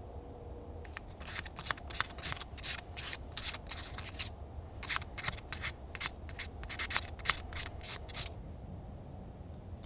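Quick irregular scraping or rubbing strokes made by hand, in two runs of about three seconds each with a short pause between, over a low steady background hum.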